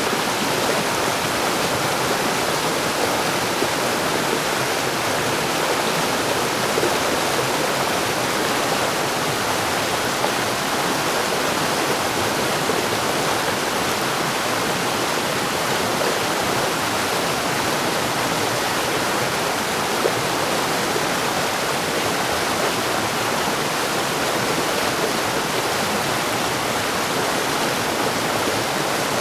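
Mountain stream: water rushing and splashing over rocks in a steady, dense rush.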